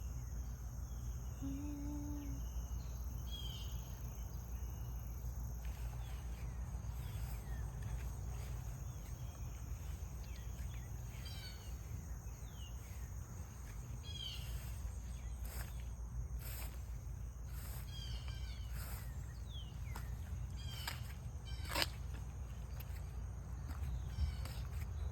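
Garden ambience: birds chirping in short calls scattered throughout, over a steady high-pitched insect drone and a constant low rumble.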